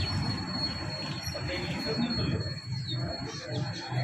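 A few faint small-bird chirps over a steady low rumble and a thin, steady high-pitched whine.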